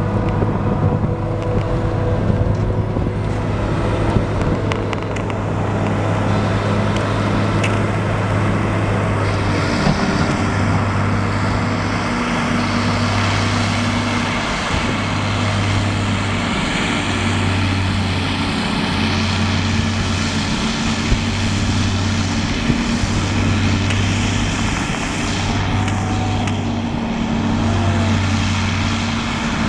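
Heavy diesel farm machinery of a maize silage harvest running steadily, tractors and a forage harvester working. A low drone swells and fades about every two seconds from around ten seconds in.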